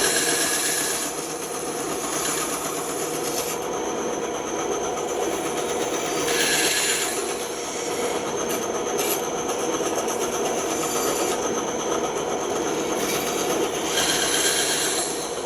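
Bandsaw running steadily and cutting wood. The sound grows louder and sharper three times: near the start, about six seconds in, and near the end.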